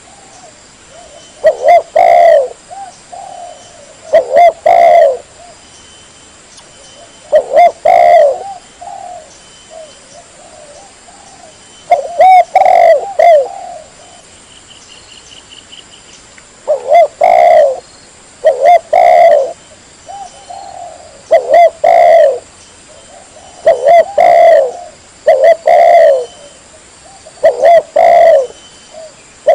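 Spotted dove cooing loudly and repeatedly, one coo phrase every two to four seconds, played as a lure call to attract wild spotted doves.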